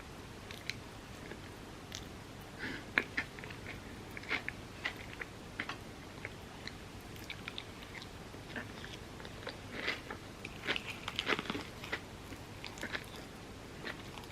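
Close-miked eating: bites and crunchy chewing of overnight oats topped with set chocolate and crispy pistachio kataifi, a run of short, sharp crackles that come thickest about ten to twelve seconds in.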